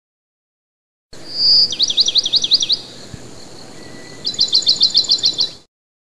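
A songbird singing two high phrases. It begins with a clear held note and a run of about eight fast sweeping notes, and after a short pause it gives a rapid trill of about ten notes. The sound starts and stops abruptly.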